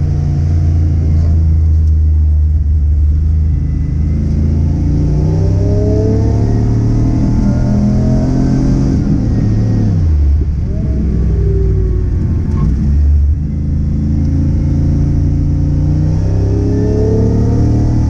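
Car engine driven hard, its pitch rising and falling as it revs through the gears. The note drops sharply about ten seconds in and climbs again a few seconds later.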